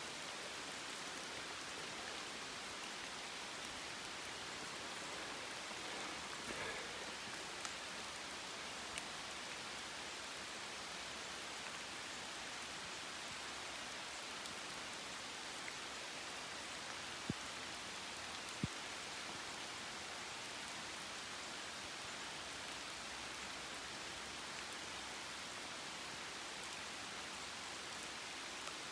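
Steady rain falling on the surface of a shallow river, a constant even hiss. Two sharp ticks stand out briefly about two-thirds of the way through.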